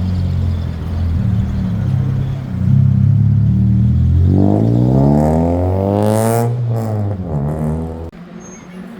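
A car engine revving hard as the car accelerates past: the pitch climbs steeply from about four seconds in, peaks, then drops away as it goes by, and the sound cuts off suddenly near the end.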